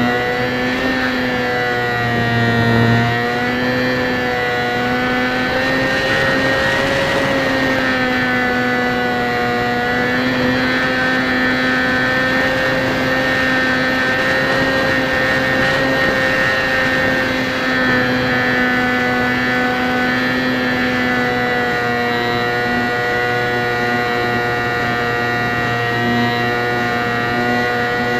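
Small electric motor and propeller of a Hobbyzone Champ RC plane running steadily in flight. The whine holds one pitch with a slight waver. It is heard through a camera mounted on the plane, with wind rushing over the microphone that swells about six to eight seconds in.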